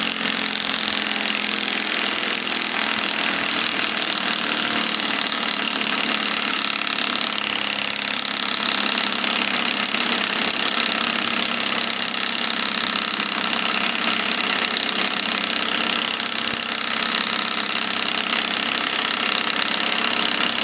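Bauer cordless compact impact wrench hammering continuously on its high speed setting, a dense rapid rattle that starts abruptly and runs without a break for about twenty seconds before cutting off.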